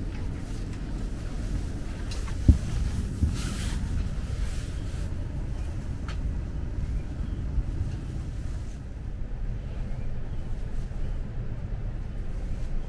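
Steady low rumble inside the passenger car of an Akita Shinkansen E6 series Komachi train, with a sharp knock about two and a half seconds in, a brief hiss just after and a few light clicks.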